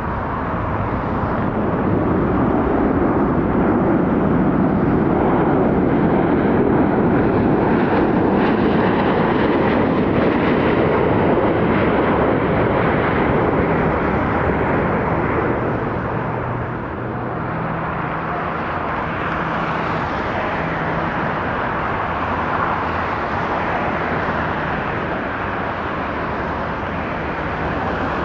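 Jet airliner engines running: a steady rushing roar, louder through the first half and easing a little just past the middle.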